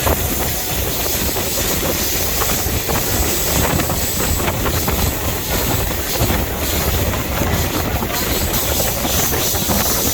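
Alaska Railroad train rolling through the depot: a steady low rumble with a broad hiss over it.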